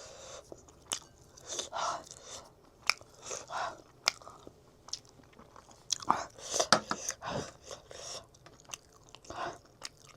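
Close-up eating sounds: a person chewing and biting food, with irregular crunches, wet mouth clicks and smacks.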